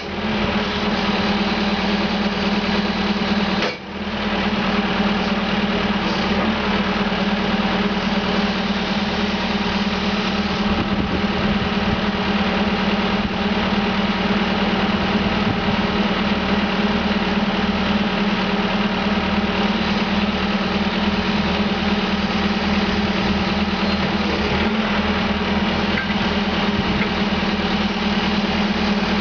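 Caterpillar 420E backhoe loader's diesel engine running steadily, with a brief dip in the sound about four seconds in.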